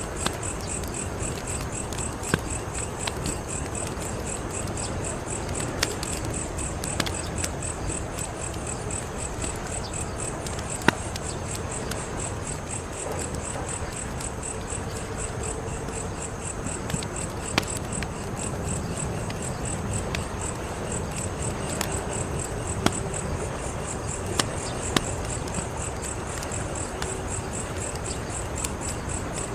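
A wood fire crackling, with sharp irregular pops every second or two over a low, steady rumble. Crickets chirp steadily and rapidly in the background.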